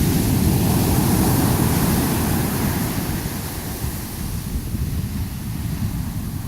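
Steady roar of Pacific Ocean surf breaking along a long, straight beach, with a low rumble of wind on the microphone. It eases slightly midway, then builds again.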